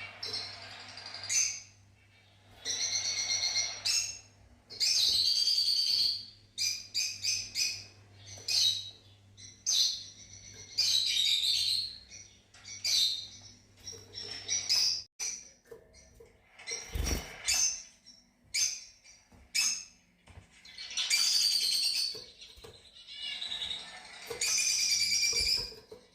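Fischer's lovebirds chirping in repeated bursts of shrill, twittering calls with short gaps between them. A low hum stops about halfway through, and a single knock comes about two-thirds of the way in.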